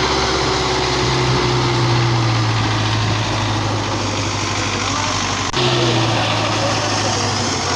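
Tractor engine running steadily, with a brief sharp click about five and a half seconds in.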